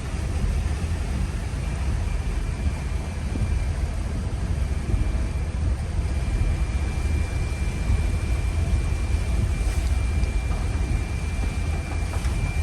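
Steady low rumble of a vehicle on the move, heard from inside, with a thin high whine that comes in about two seconds in and holds.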